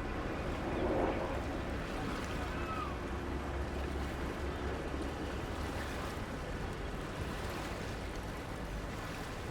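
Waterside ambience with the low, steady rumble of a boat engine and the wash of river water. There is a brief louder sound about a second in.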